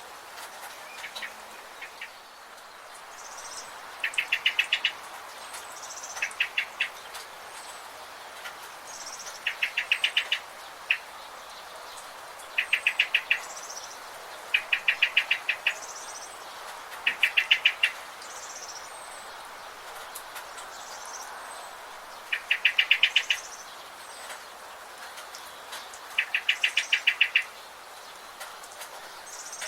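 Songbirds in a forest: one bird repeats a short, rapid trill of quick even notes every few seconds, while fainter, higher short calls from another bird come in between, over a steady soft background hiss.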